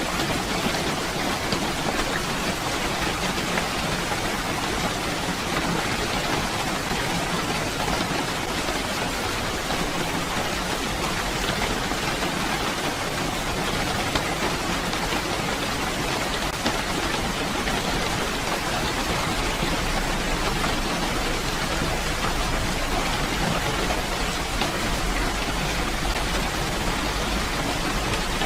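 Steady rainfall: an even, unbroken hiss of many drops falling.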